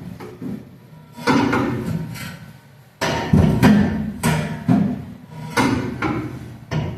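Hammer blows on a vehicle's exhaust pipe, about eight irregular strikes, each ringing briefly and dying away.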